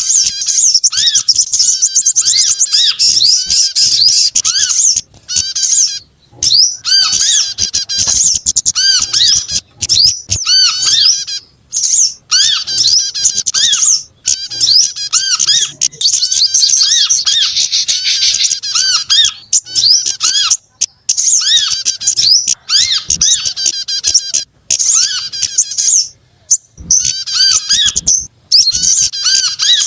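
A dense, loud chorus of small birds' rapid chirps and trills, with high twittering over a lower row of short repeated notes and brief gaps here and there. It is a bird-trapping lure recording that combines the calls of sogok ontong, kemade, korlap and prenjak (prinia).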